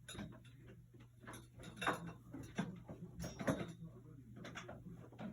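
Handling noise as a power cord and plug are fumbled with: scattered clicks, knocks and rattles, the loudest about two seconds and again about three and a half seconds in, over a faint steady low hum.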